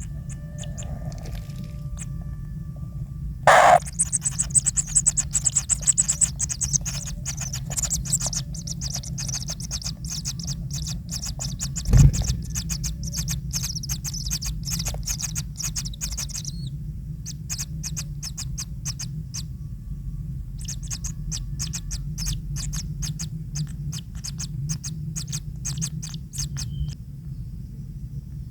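Kingfisher calls at the nest: a sudden loud burst about three and a half seconds in, then a long run of rapid, high-pitched chattering calls, with a low thump about twelve seconds in. After a short pause, shorter bursts of rapid ticking calls come back until near the end.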